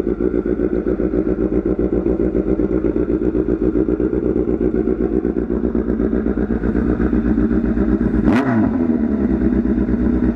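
Kawasaki Z900's inline-four idling loud and steady through an SC-Project full-system exhaust. About eight seconds in, a quick throttle blip with a sharp crack makes the pitch jump, and it falls back to idle.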